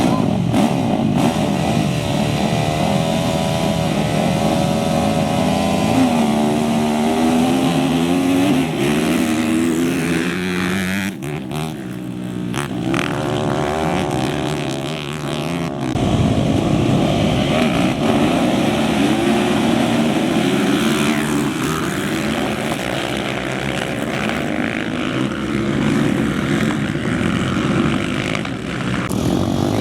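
Off-road racing motorcycle and quad engines revving, their pitch rising and falling as they accelerate and pass. The sound changes abruptly twice, about eleven and sixteen seconds in.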